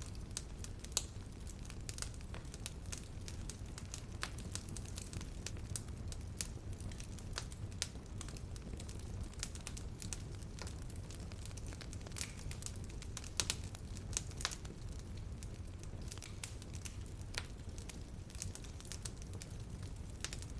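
Wood fire crackling in a fireplace: irregular sharp pops and snaps over a steady low rumble of the flames, with a few louder pops about a second in and again around two-thirds of the way through.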